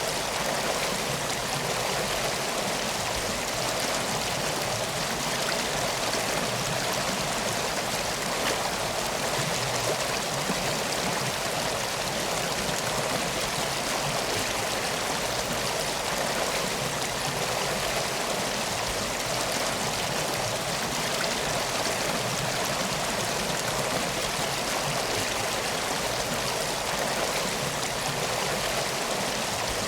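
Steady rushing of a flowing river, an even unbroken water sound with no distinct pops or drips standing out.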